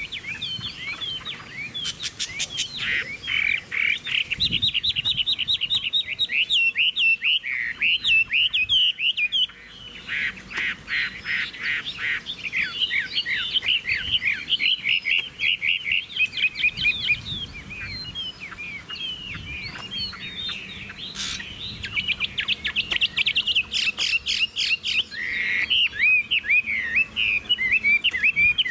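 Chinese hwamei (Garrulax canorus) singing loudly and almost without a break, switching between rapid trills of repeated notes and looping, warbling phrases.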